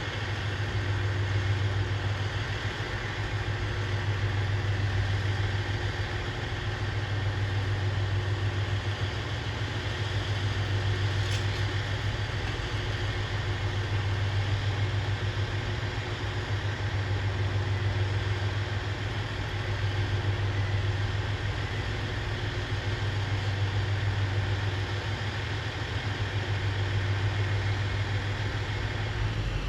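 Diesel railcar engine idling: a steady low hum whose loudness swells and eases every few seconds.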